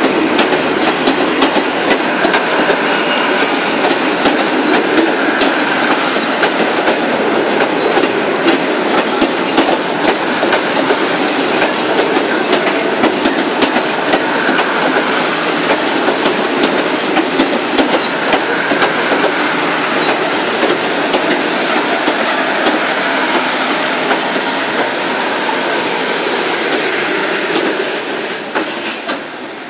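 Passenger coaches of an arriving express train rolling past on the rails: a steady rumble with many sharp wheel clacks over the rail joints. The noise falls away near the end as the last coach passes.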